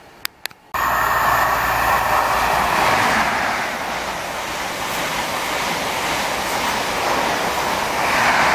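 LNER express train passing through the station at speed: a loud, steady rush of wheels on rail and air. It cuts in abruptly under a second in, just after two short clicks.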